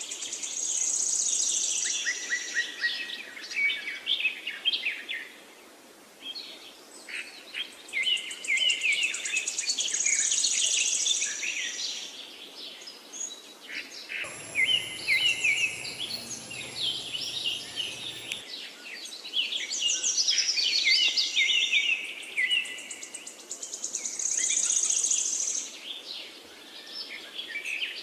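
Pet birds chirping and chattering continuously, with many quick overlapping calls. About midway a steady high-pitched tone with a low hum under it sounds for about four seconds, then stops.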